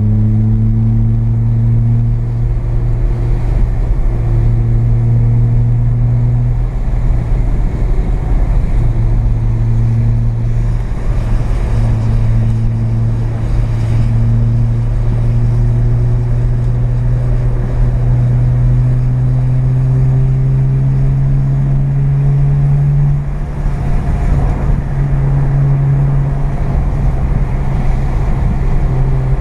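Mazda FB RX-7's carbureted 12A rotary engine heard from inside the cabin, pulling steadily around the track. Its note climbs slowly and drops back several times.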